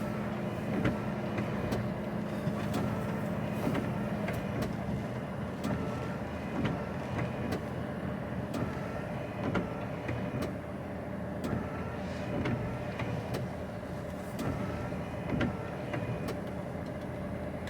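HGV lorry's diesel engine running steadily, heard from inside the cab, with faint regular clicks over it.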